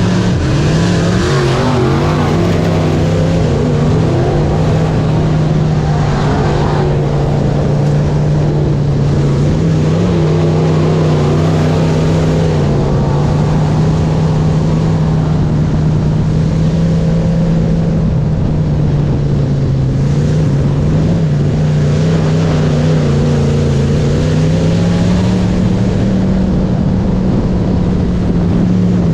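Race car engine running continuously, its pitch holding fairly steady with small dips and rises as the throttle changes.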